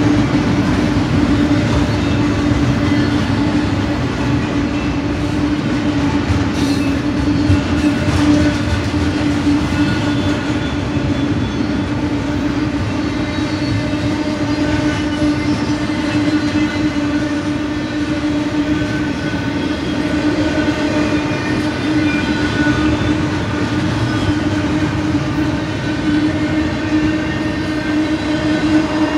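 Double-stack intermodal well cars rolling past on the main line: steady rumble and clatter of wheels on rail, with a steady hum under it.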